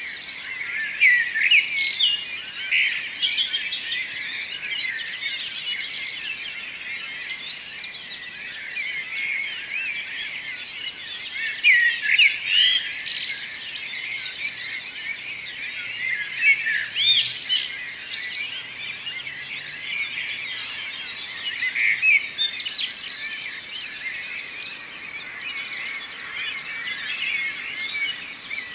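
Morning chorus of many songbirds singing at once: a continuous mesh of overlapping high chirps and trills, with a few louder song phrases standing out now and then.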